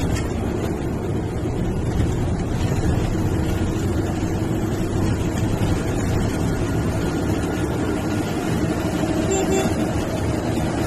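MSRTC sleeper/seater bus under way: steady engine drone and road noise, heard from inside the bus.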